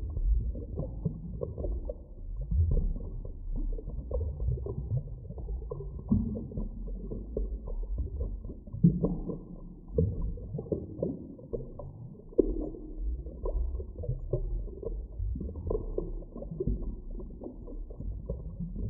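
Muffled underwater ambience: a continuous deep rumble with irregular low groans and short creaking sweeps, nothing above a dull low pitch.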